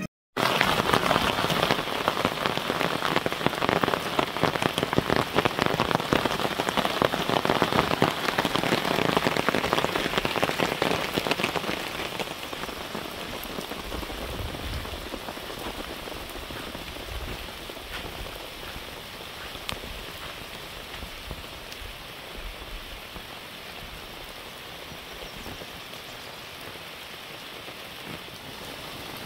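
Heavy rain falling, with many separate drop hits close by. It grows noticeably quieter about twelve seconds in.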